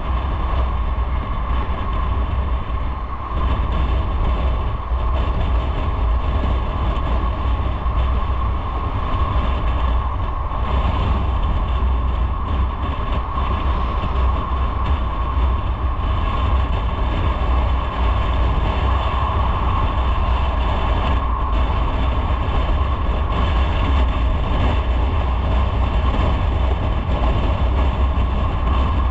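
Motorcycle riding at a steady pace: engine running and wind rumbling on the microphone, without a break.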